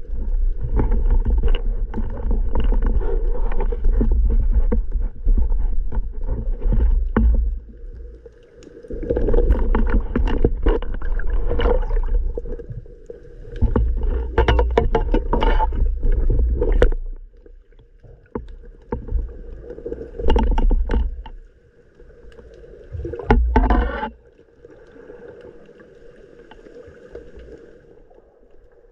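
Water sloshing and bubbling in repeated bursts over a low rumble, loudest in the first half, dropping to a quieter wash in the last few seconds apart from one short burst.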